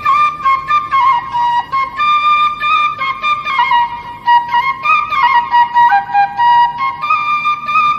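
Music: a flute playing an ornamented, gliding melody over a light regular beat.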